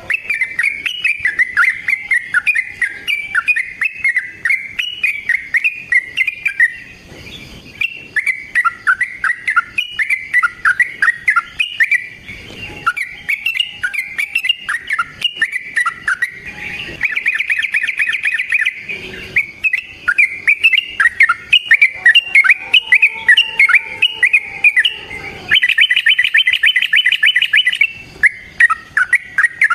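Yellow-vented bulbul (trucukan) singing a long, unbroken run of rapid chattering phrases. Twice the song breaks into a fast, even trill lasting a couple of seconds.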